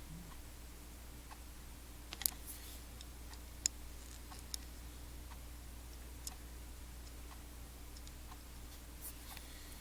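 Sparse, faint clicks and taps of small tools being handled at a workbench, over a steady low hum.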